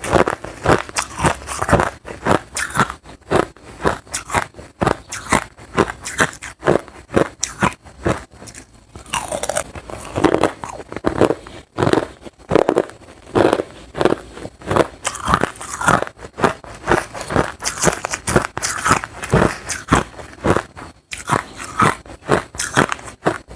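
Hard crushed ice being bitten and chewed close to the microphone: a rapid, uneven run of crisp crunches, several a second, with a brief lull about nine seconds in.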